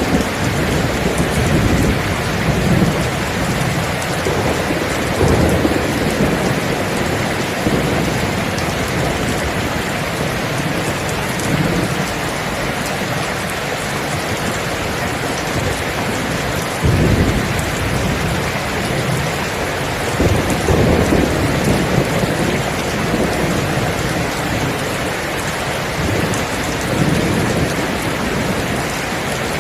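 Steady heavy rain with low rumbles of thunder rolling in and out every few seconds; the strongest rumble comes a little past the middle.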